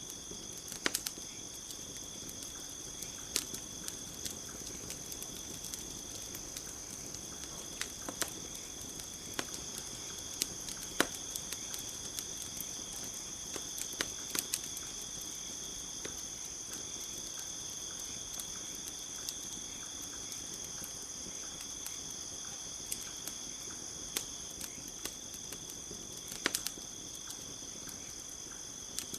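Campfire crackling, with irregular sharp pops every second or few, over a steady high chirring of crickets.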